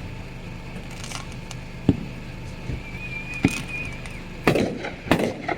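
Fireworks and firecrackers going off: a few sharp bangs about two seconds apart, then two louder, quicker bangs near the end, over a steady low hum.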